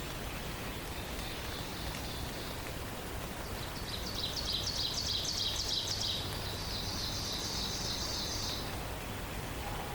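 A songbird singing a fast trill of rapid high notes for about five seconds, starting about three and a half seconds in, with its second half pitched a little higher. Underneath is a steady hiss like rain or running water, and a fainter high bird call comes earlier.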